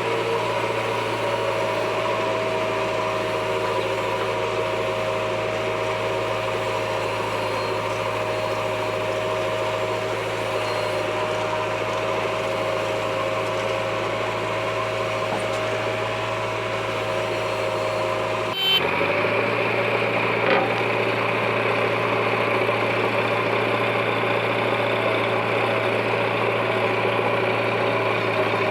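JCB 3DX backhoe loader's diesel engine running steadily, with a steady whine over it; about two-thirds of the way through, the sound changes abruptly and the engine carries on with a rougher, less tonal sound.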